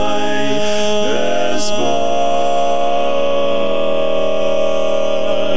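Male barbershop quartet singing a cappella in close four-part harmony, holding a long sustained chord; one voice moves and glides up about a second in before the chord settles and rings on.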